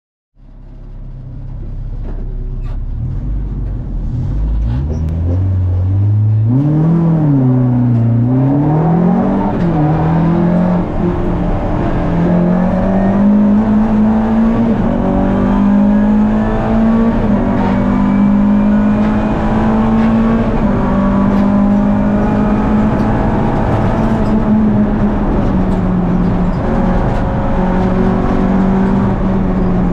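Renault Clio Sport rally car's engine heard from inside the cabin: a low rumble for the first few seconds, then revs rising and dropping twice as it pulls up through the gears, then running at steady high revs.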